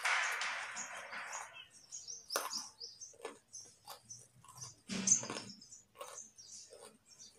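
Raw carrot being chewed with the mouth closed: a dense crunching at first that thins out within about a second and a half, then scattered single crunches and wet clicks, the loudest about five seconds in.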